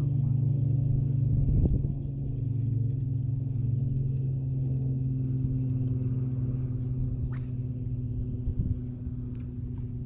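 A steady low motor hum, holding one pitch throughout, with a few faint clicks.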